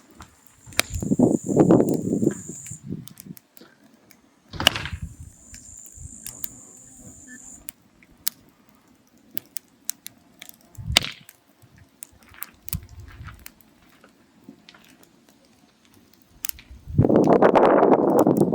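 Burning firewood crackling with scattered sharp pops and snaps. A high hiss comes and goes, and twice there is a louder, longer rush of noise, near the start and at the end.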